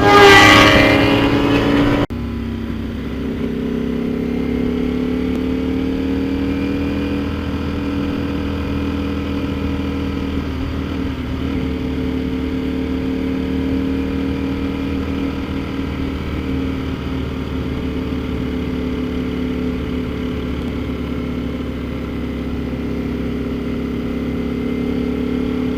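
Sport motorcycle engine: a louder, rougher burst that breaks off abruptly about two seconds in, then a steady cruising note whose pitch drifts slowly up and down.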